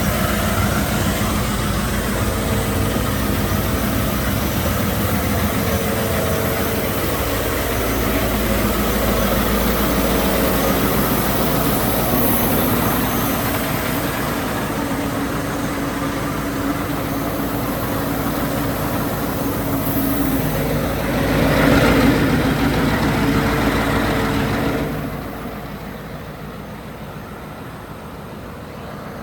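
Scania R520's V8 diesel engine idling steadily. It swells louder about twenty-two seconds in, then drops to a quieter level for the last few seconds.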